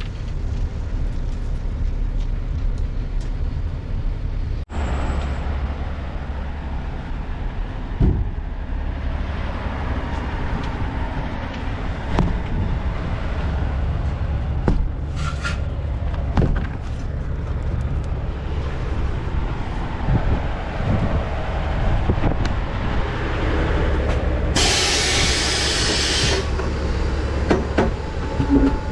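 Dump truck's diesel engine running steadily under way, with scattered rattles and knocks. Near the end comes a burst of air hiss lasting about a second and a half.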